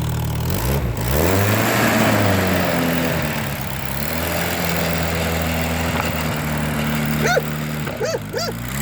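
Car engine of a homemade snowmobile revving up and dropping back, then idling steadily, with a few short high chirps near the end and another rev starting.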